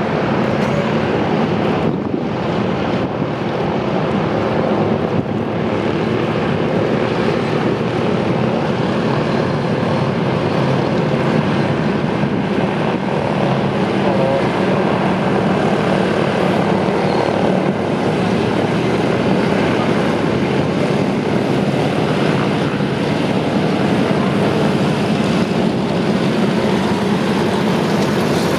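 Radial piston engines of Douglas DC-3/C-47 Dakota aircraft running steadily with their propellers turning.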